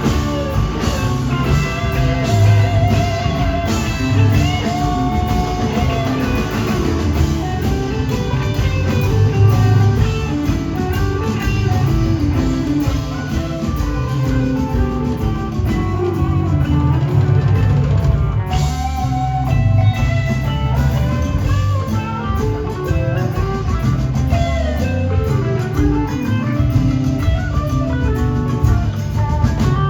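A rock band playing a long instrumental jam: an electric guitar lead with gliding, bending notes over bass guitar and drum kit.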